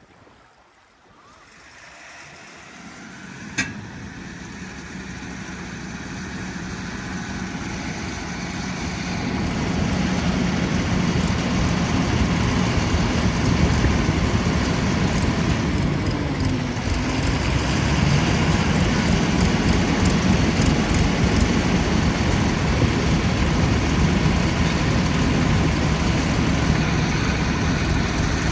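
Heavy vehicle engine building up over the first ten seconds, then running loud and steady under load as it tries to pull a truck stuck in the river, with a brief dip in engine speed a little past halfway. A single sharp click sounds about three and a half seconds in.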